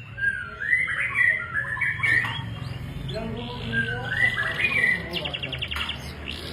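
Domestic canary singing a long, varied song of quick stepped chirping phrases, breaking into a rapid trill near the end, over a steady low hum.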